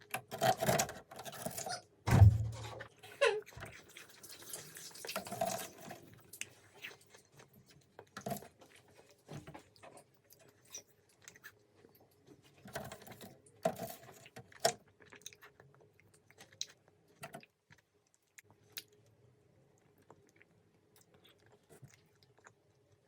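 Close-miked chewing of soft, sticky candy: irregular wet mouth clicks and smacks, busiest in the first few seconds, then thinning to sparse clicks. A single low thump comes about two seconds in.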